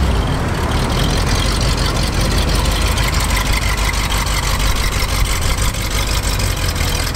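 Engine of a 1964 Corvette prototype running as the car pulls away and drives across the grass, a steady, loud, fast-pulsing exhaust note.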